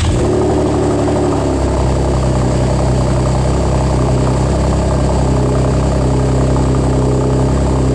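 Chevrolet Camaro engine idling just after a cold start, heard through an aftermarket exhaust with Dynomax Race Bullet mufflers: a loud, steady exhaust drone with no revving.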